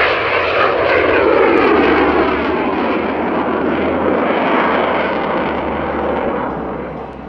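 Yak-110 aerobatic aircraft passing under power, its twin Russian radial engines and propellers loud, with a pitch that falls as it goes by. The sound fades somewhat near the end.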